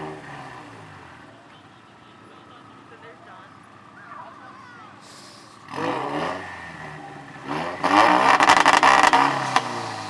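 Turbocharged car engine revved hard: a quick rev at the start, another rising rev about six seconds in, then about two seconds of loud, rapid banging and crackling from the exhaust near the end, the kind launch control makes.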